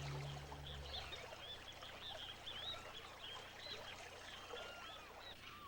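Faint wetland bird chorus: many short, overlapping chirps and whistles, with soundtrack music fading out about a second in.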